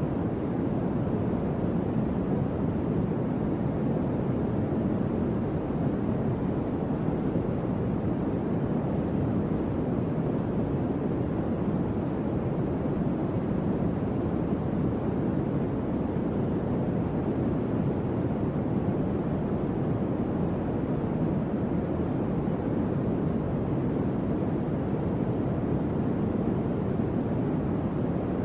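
Electric fan running steadily: an even, low whooshing hum of moving air with no change in speed.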